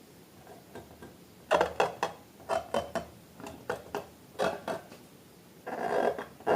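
Slime being squeezed and kneaded by hand: an irregular run of sticky, wet clicks and pops starting about a second and a half in, getting denser near the end.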